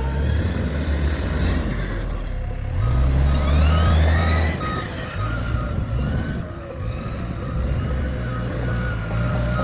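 Diesel engine of a telescopic wheel loader running under working load, with a brief rising-then-falling whine about two seconds in. A short repeating beep, like a reversing alarm, sounds over it from about the middle on.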